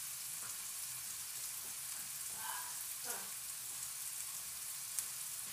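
Diced red onion and bell pepper sizzling steadily in bacon drippings in a frying pan, a high frying hiss. A single sharp click near the end.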